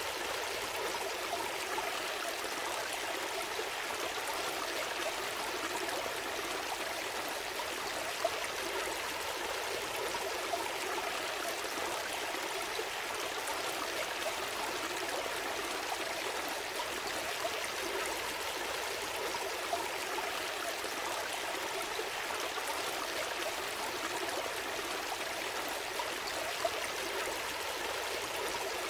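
Gentle stream flowing, a steady babble of running water with small splashes and droplet ticks here and there.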